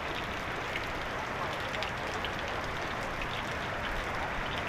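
Heavy rain falling steadily on a flooded road, an even hiss dotted with small splashes and drips.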